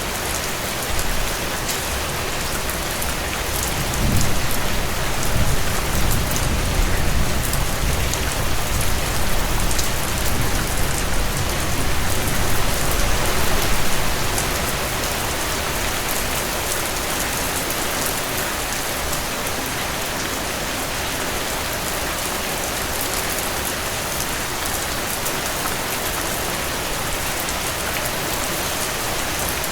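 Heavy rain falling steadily as a dense even hiss, with a low rumble of thunder rolling in about four seconds in and fading out around fourteen seconds in.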